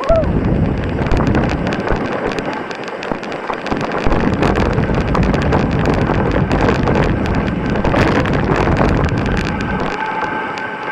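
Mountain bike riding fast down a rocky, loose trail: tyres rolling and crunching over stones while the bike's chain and frame rattle, with many sharp knocks as it hits rocks, under steady wind rush on the camera's microphone.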